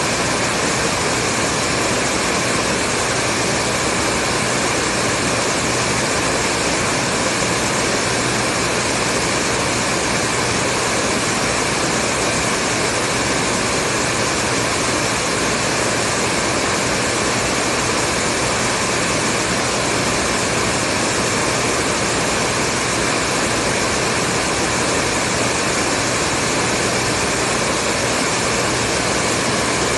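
Hair dryer running continuously: a steady, even whooshing rush of fan and airflow with a faint motor hum underneath, used as white noise.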